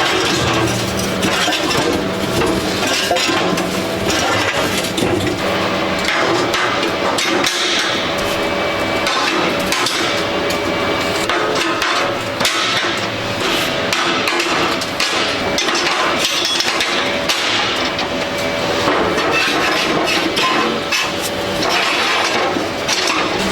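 Repeated hammer blows on metal, many strikes close together, over a faint steady hum.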